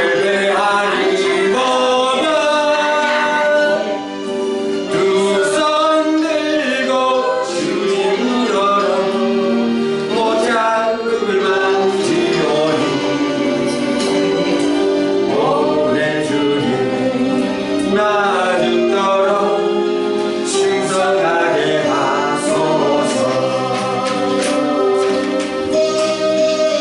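Gospel praise song: voices singing a melody over a steady sustained accompaniment.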